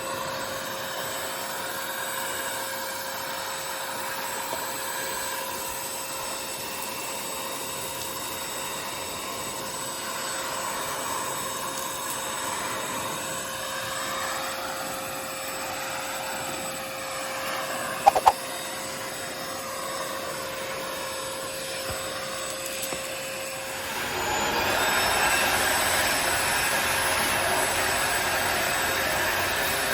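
Parkside PAWD 20-Li A1 20 V cordless wet/dry vacuum running with a steady motor whine. There are two sharp clicks about two-thirds of the way through, and about four-fifths in the sound turns louder and rougher as the airflow changes.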